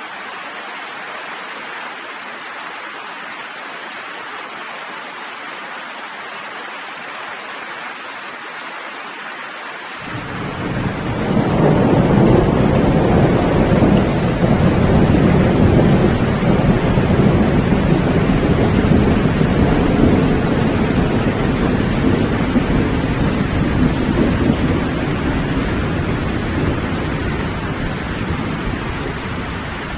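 Steady rain falling, then about a third of the way in a long rumble of thunder rolls in over it, loudest for around ten seconds and slowly dying away toward the end.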